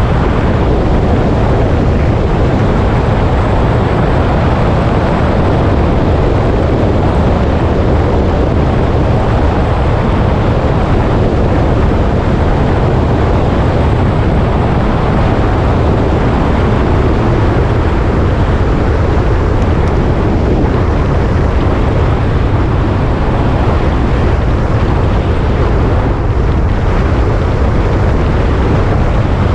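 A motorcycle under way, its engine and road noise mixed with a steady rush of wind on the microphone, loud and unbroken.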